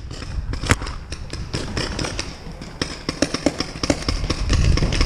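Irregular sharp pops of paintball markers firing, coming thicker and faster from about three seconds in, over a low rumble.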